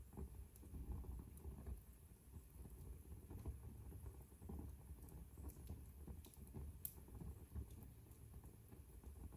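Fire burning in a fireplace, faint, with a low rumble of flames and scattered small crackles, one sharper pop about seven seconds in.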